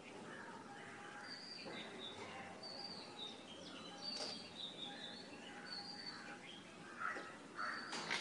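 Faint bird chirps: short high notes repeating every second or so, with a few slightly louder rough calls near the end.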